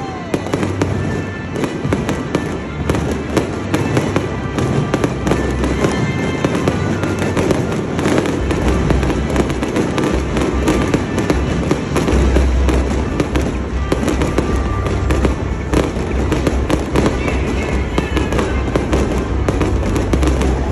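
Aerial fireworks going off nonstop, with dense rapid crackling and popping from bursting shells, over music.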